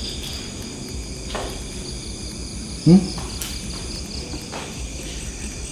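Crickets and other night insects chirring steadily, with one short voiced sound about three seconds in.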